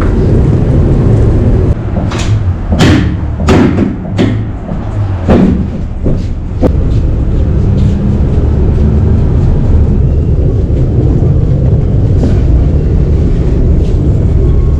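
A semi truck idling with a steady low rumble, with a run of about six bangs and thuds between about two and seven seconds in.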